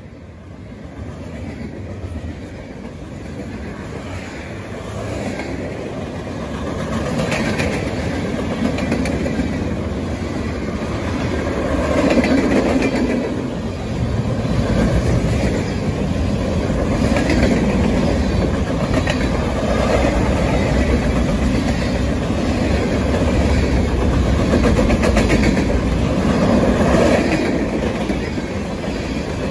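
Freight train cars rolling past on the rails: a steady roar of steel wheels with repeated clacks as the wheel trucks pass over the rail joints, growing louder over the first several seconds and then holding steady.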